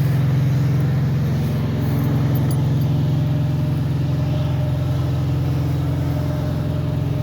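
Carrier refrigeration (reefer) unit on a trailer running with a steady low diesel hum that does not change. The unit has just been fixed and is running again.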